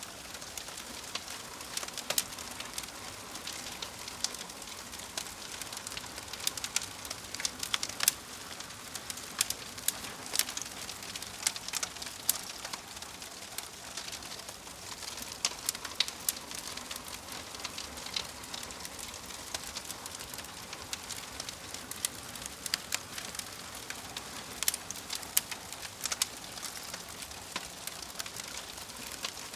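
Wood fire burning in a fireplace: a steady hiss of flames with frequent sharp, irregular crackles and pops from the burning logs.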